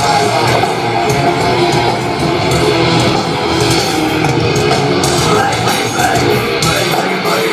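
Live heavy rock band playing loud, with electric guitar to the fore.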